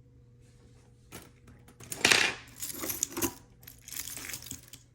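Metal costume jewelry clinking and jingling as pieces are handled and set down, in a few scattered clicks with the loudest clatter about two seconds in.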